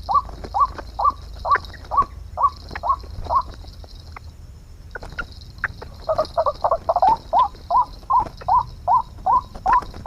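White-breasted waterhen (ruak-ruak) calling, a long series of short rising 'ruak' notes, about two to three a second. The series breaks off for a couple of seconds near the middle, then resumes with a quicker jumbled burst before settling back into the regular rhythm. A steady high buzz runs underneath.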